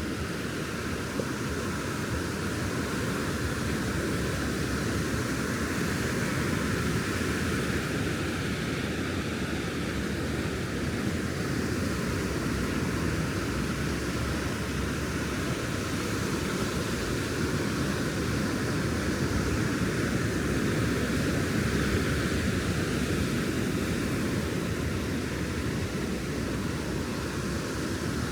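Steady rush of ocean surf on a beach, with a heavy low rumble underneath and no clear rise or fall.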